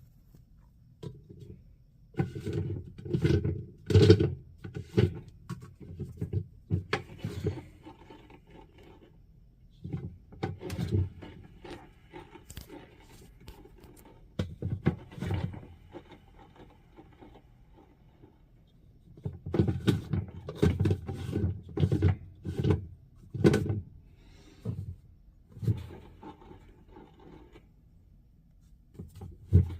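GE top-loading washing machine during its wash cycle, giving irregular bursts of clunking and rattling separated by quieter gaps while the agitator stays still: the sign of a broken gearbox/transmission.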